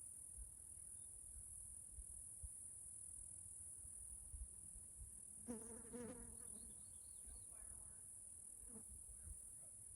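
Cicadas buzzing in a steady, high-pitched drone. A brief lower-pitched call cuts in a little after halfway, followed by a few faint high chirps.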